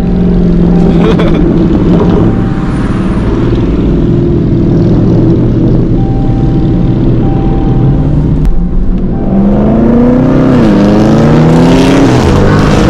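V8 muscle car engine running steadily, then accelerating hard about nine or ten seconds in. Its pitch climbs, drops twice at upshifts and climbs again.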